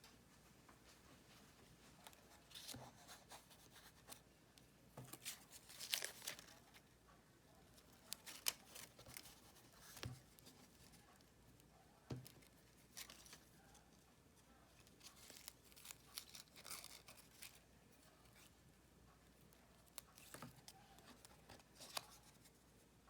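Faint, scattered rustling and light ticks of paper and card being handled: crafting papers being peeled, folded and set down.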